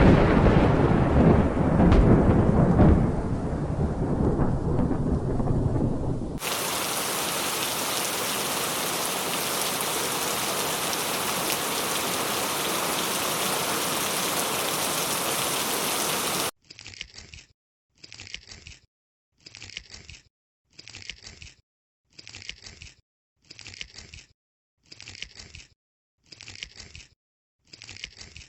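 Thunder rumbling and fading away, then steady heavy rain starting abruptly about six seconds in. The rain cuts off suddenly after about ten seconds. It gives way to a short sound repeating evenly about once every second and a quarter.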